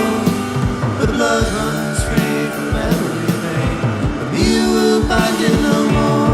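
Psychedelic rock band playing at full volume: sustained guitar lines over a steady drum beat.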